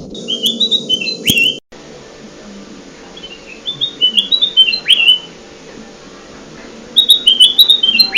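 Kutilang emas (ruby-throated bulbul) song, three times: each phrase is a quick run of clear whistled notes stepping down in pitch and ending in a falling slur, with short pauses between phrases. A low steady hum runs underneath.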